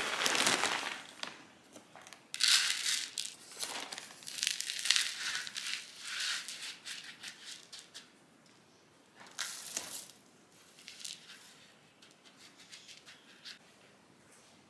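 Rustling and crinkling of a jacket's fabric being pulled on, in irregular bursts that grow fainter and sparser toward the end.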